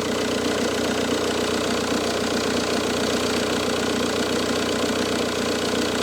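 Car engine idling steadily with the auxiliary drive belt running over a belt tensioner that swings a lot; the owner suspects the tensioner, rather than the alternator, as the cause of the engine's odd noise.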